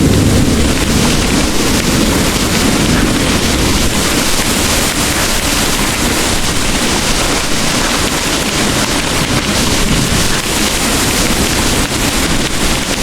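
Heavy rain pouring steadily, a dense even hiss, with the low rumble of distant thunder dying away in the first second.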